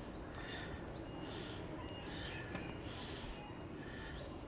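A bird calling repeatedly: short, high notes that sweep upward, about one a second, over a low steady background hum of outdoor noise.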